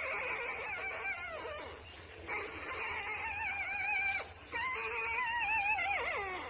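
A dog whining and howling in three long cries whose pitch wavers up and down, each lasting about two seconds.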